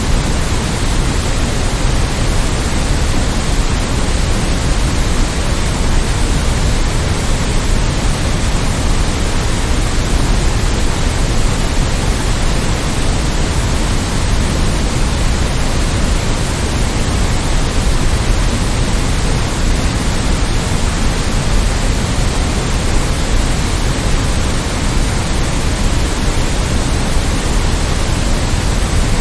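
Steady electronic white noise: an even, unbroken hiss, heavier in the low end than the high.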